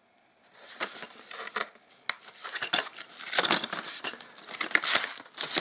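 A toy's retail packaging being opened by hand: irregular crinkling and tearing with small sharp clicks. It opens easily.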